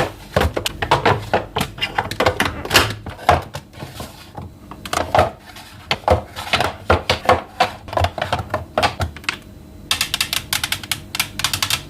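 Containers and food items being handled and set into refrigerator storage: an irregular string of clicks, taps and knocks, ending in a quick run of rapid sharp clicks.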